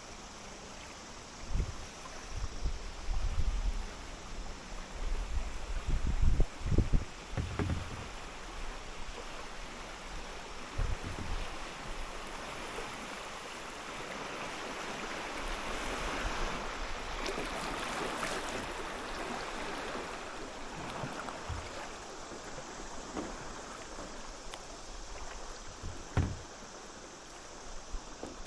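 Water splashing and lapping around a kayak as it is paddled, with a series of low thumps in the first several seconds and a few more later on. A rushing of moving water swells in the middle and then fades.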